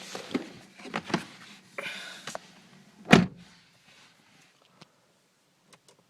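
Clicks and handling noises, then a car door shutting with a single heavy thump about three seconds in, followed by near quiet with a few faint ticks.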